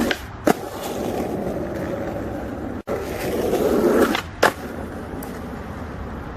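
Skateboard wheels rolling on wet pavement, with two sharp clacks of the board, about half a second in and about four and a half seconds in, the second the loudest.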